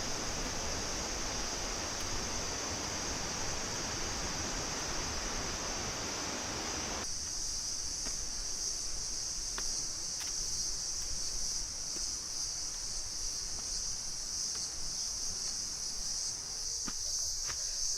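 Steady high-pitched drone of forest insects, with the rushing of a waterfall under it that stops abruptly about seven seconds in. After that the insects go on alone, with a few faint clicks.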